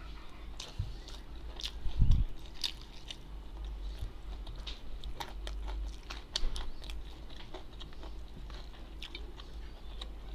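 Close-miked sounds of a person eating with her hands: biting and chewing, with many sharp wet clicks and some crunching. A dull low thump about two seconds in is the loudest sound.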